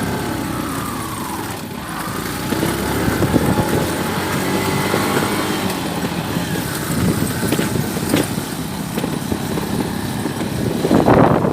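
Motor vehicle engine running with steady road noise while travelling.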